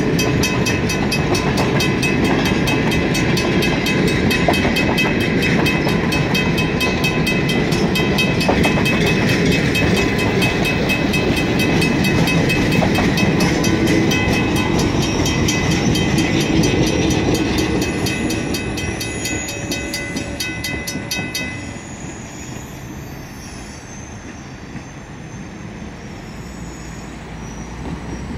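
Passenger train cars rolling past with a heavy rumble and wheel clatter while a railroad crossing bell rings rapidly; the train fades as it moves away, and the bell stops suddenly about three-quarters of the way through. A road vehicle approaches near the end.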